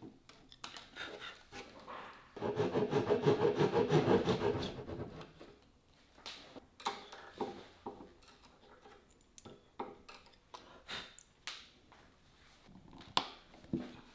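Wood being worked by hand with rapid back-and-forth strokes, like rasping or sanding, for about two and a half seconds, then dying away. Scattered light knocks and clicks of wood being handled follow.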